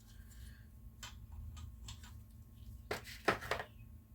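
Scattered light metal clicks and taps of sockets being handled and tried on a nut, with a few louder clicks about three seconds in, over a low steady hum.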